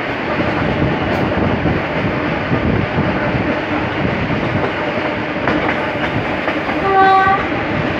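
Suburban electric train running at speed, heard from an open carriage window: steady running noise of the wheels on the track. About seven seconds in, a short steady high tone sounds briefly.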